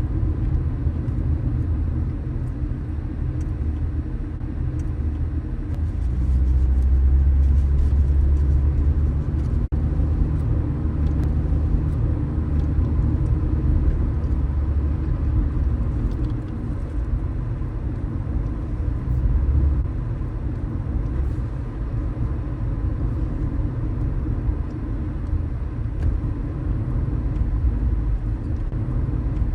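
Car driving along city streets: a steady low rumble of engine and tyre road noise, which swells for a few seconds about six seconds in.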